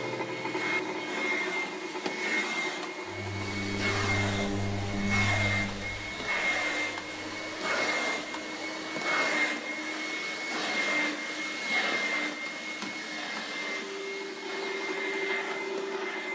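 Electroacoustic sound-collage soundtrack: a steady rushing noise drone that swells and fades about once a second, under a held high tone. A low hum joins from about three to six seconds in.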